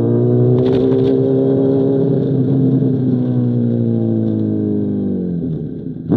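2005 Honda CBR1000RR's inline-four, through an SC Project CR-T exhaust, running under steady throttle with its pitch climbing slightly and holding. The engine note then eases down and drops off near the end as the throttle closes.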